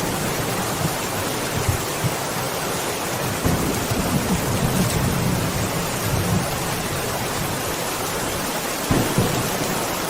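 Steady heavy rain with rolling thunder. A low rumble swells between about three and seven seconds in, and there is a brief louder crack of thunder near the end.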